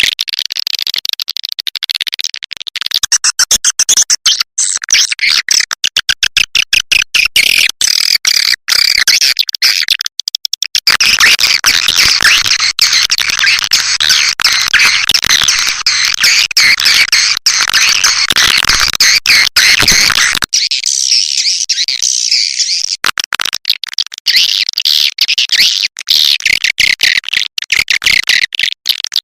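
Recorded swiftlet calls: a dense, high-pitched twittering of rapid chirps and clicks, of the kind played as a lure sound to draw swiftlets into a nesting house.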